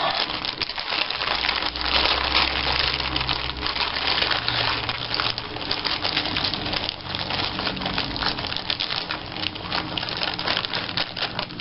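Paper and cardstock scraps rustling, crinkling and tapping as they are handled and shuffled, in an irregular run of small clicks and rustles.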